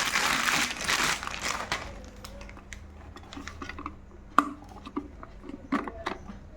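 Plastic packaging crinkling and rustling for about two seconds, then scattered clicks and light knocks as the unboxed items are handled, the sharpest about halfway through.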